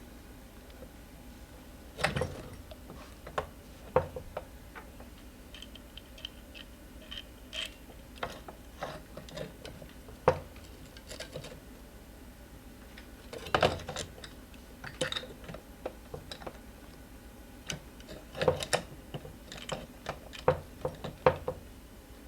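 Irregular small metal clicks and clinks from hands working steel washers onto an e-scooter's rear wheel axle, with a few sharper knocks about two and four seconds in and again in the middle and near the end.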